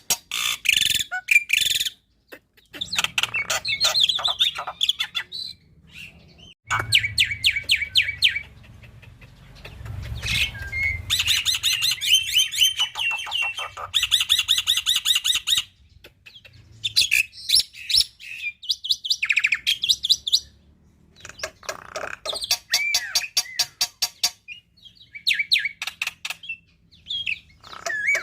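Black-winged myna (jalak putih) singing: rapid-fire trains of clicking notes mixed with whistled, sliding phrases, in bursts of a few seconds with short pauses between them.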